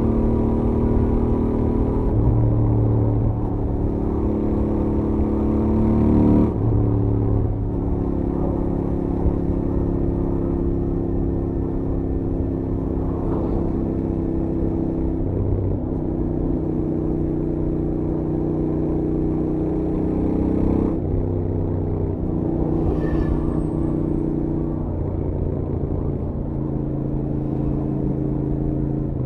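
Stock Royal Enfield Interceptor 650's parallel-twin engine running at highway speed under way. The engine tone holds steady, with two sharp drops in pitch, about six and a half seconds and twenty-one seconds in.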